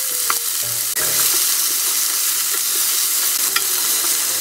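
Blanched bellflower root strips sizzling in hot oil in a non-stick pan as they are stir-fried with wooden utensils, with a couple of light taps of the utensil against the pan.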